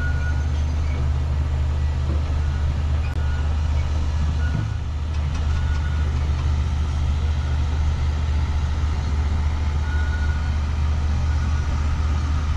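Petit Train d'Artouste, a narrow-gauge tourist train, running along its track: a steady low rumble and hum from the running gear, with a faint high tone coming and going.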